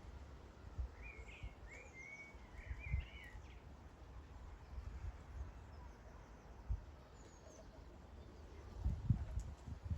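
Small songbird chirping a quick run of short notes in the first few seconds, with a few faint high chirps later. Dull low thumps on the microphone throughout, strongest near the end.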